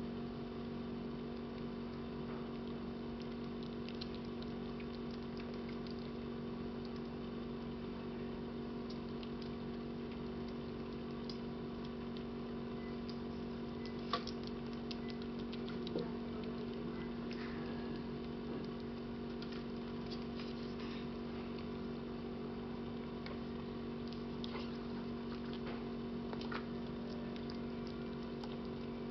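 A steady mechanical hum holding several fixed pitches, with faint scattered ticks and two sharper clicks about halfway through.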